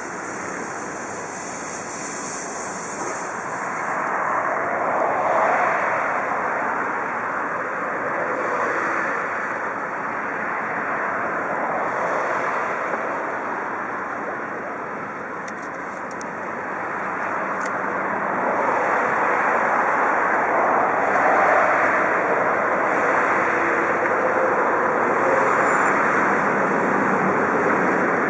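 Railway locomotives moving along the tracks below: a steady rushing rumble that swells and ebbs several times, with a few faint clicks about halfway through.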